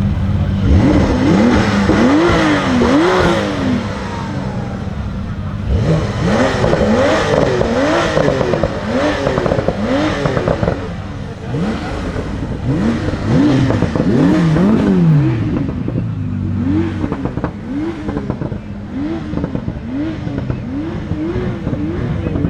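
Supercar engines revving over and over, a quick blip up and back down about once a second, over a steady engine idle.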